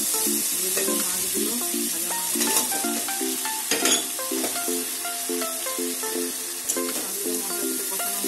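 Spice masala sizzling in hot oil in a kadai while a spatula stirs and scrapes it, with louder clatters about two and a half and four seconds in as fried pabda fish are slid into the pan. Light plucked background music runs throughout.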